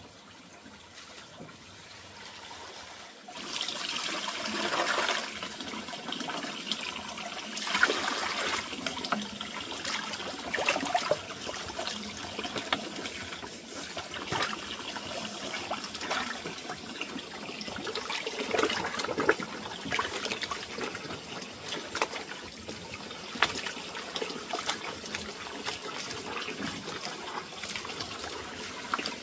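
Running water with many small knocks and clicks; it grows louder about three seconds in.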